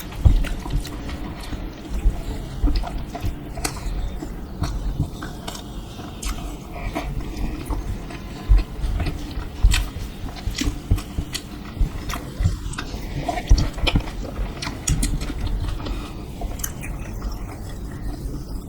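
Close-up eating sounds: biting into and chewing crisp dosa, with frequent irregular small crunches and mouth clicks.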